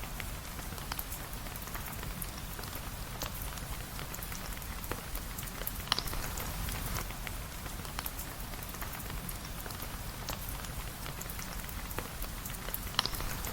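Steady rain with a continuous hiss and a low rumble underneath. A few sharp pops stand out, the loudest about six seconds in and another near the end.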